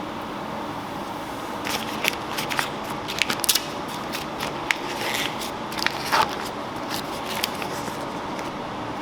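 Scattered light clicks and clatters of kitchen handling over a steady background noise, starting about one and a half seconds in and dying away near the end.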